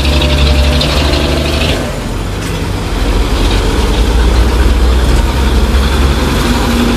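Heavy truck engine running close by with a deep low rumble. About two seconds in the sound drops, then builds up again and holds steady.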